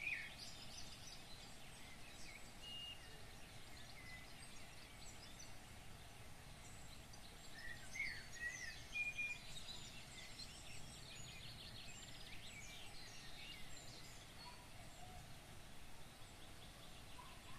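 Small birds chirping in many short, quick calls over a faint steady background hiss, with a busier cluster of calls about eight seconds in.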